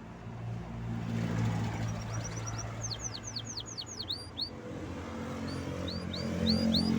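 Canary singing: a quick run of downward-sweeping whistled notes about halfway through, then a series of rising notes near the end, over a steady low hum.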